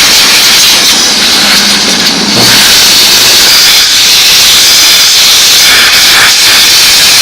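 Steam cleaner jetting a steady, loud hiss of steam onto greasy engine parts, easing off briefly about two seconds in before carrying on.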